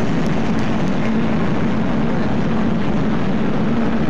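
A steady, loud rush of noise with a constant low hum running through it: the 'freaky background noise' of one of the unexplained 'strange sounds' recordings.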